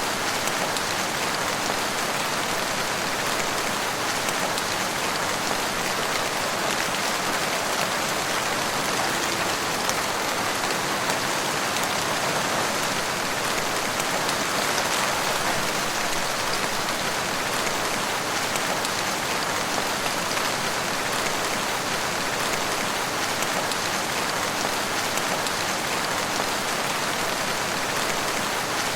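Steady rain falling, an even patter of drops on surfaces that holds constant without thunder or breaks.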